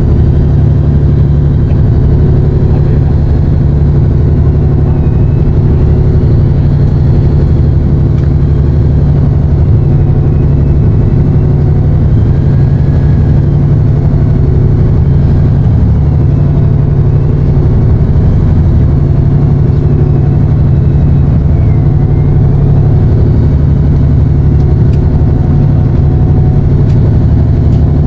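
Fishing boat's engine running steadily, a loud, even drone with no change in pitch.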